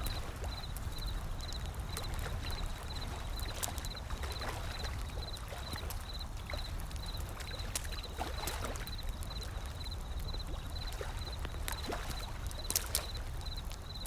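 Wood fire crackling, with scattered sharp pops, over a low steady rumble of gentle ocean waves washing in. A faint high chirp repeats evenly in the background.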